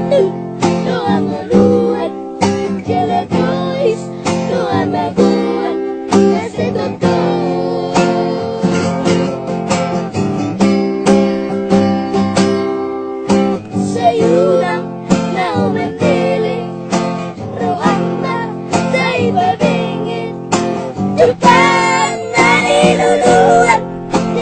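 Acoustic guitar strummed in a steady rhythm, with a child's voice singing along.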